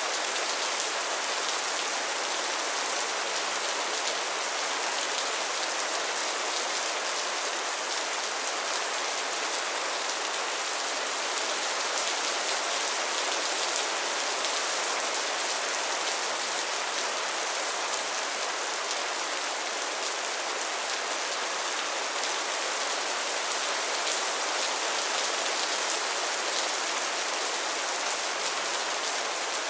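Steady rain falling on a surface: an even, unbroken hiss of many small drops.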